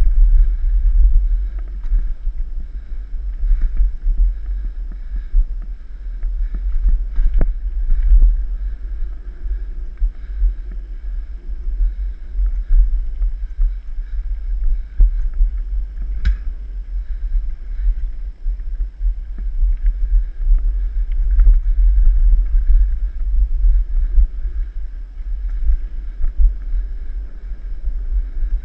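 Mountain bike riding on a dirt trail: wind buffets the microphone as a loud, uneven low rumble. Faint clicks and rattles from the bike run underneath, with two sharper knocks, one about seven seconds in and one about sixteen seconds in.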